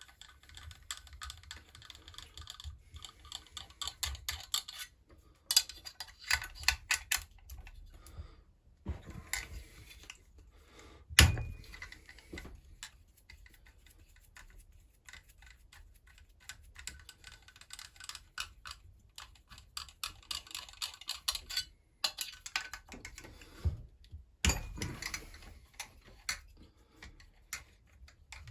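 Small metal hand tools and chainsaw parts clicking, tapping and clinking irregularly as the saw is dismantled on the bench, with one sharp, ringing metallic clink about 11 seconds in.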